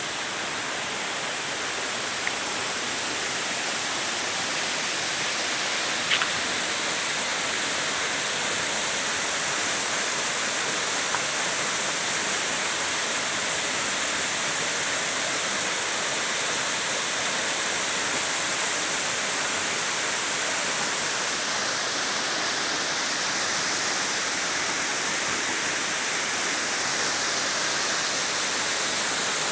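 A 20-metre waterfall crashing steadily into its pool, an even, full rushing roar of falling water, with a faint click or two.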